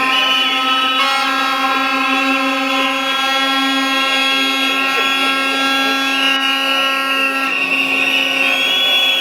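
A protest crowd keeps up a continuous din of blown noisemakers: a steady buzzing horn drone with high whistling wavering over it. It eases off a little near the end.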